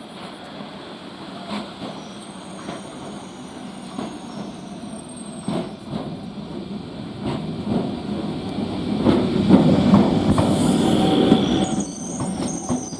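BEML electric multiple-unit train running on the track, its rumble building to a peak about ten seconds in and then easing. It carries sharp wheel clicks over rail joints and thin, high-pitched wheel squeal.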